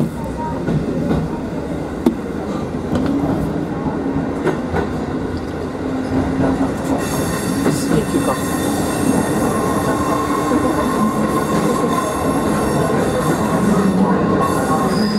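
Kotoden electric commuter train gathering speed out of the station, heard from inside the front cab: steady running noise and motor hum, growing slowly louder. From about seven seconds in, high wheel squeal joins as it takes the curves.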